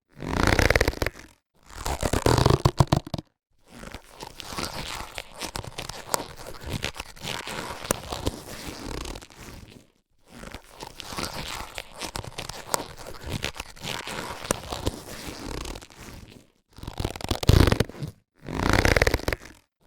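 Latex surgical gloves being handled, the rubber rubbing and crinkling: two short loud bursts, then a long quieter stretch of fine crinkling, then two more loud bursts near the end.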